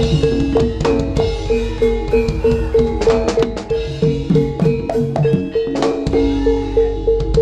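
Javanese jaranan gamelan music: tuned bronze percussion strikes one note again and again at a quick, steady pulse over drum strokes and other struck metal notes.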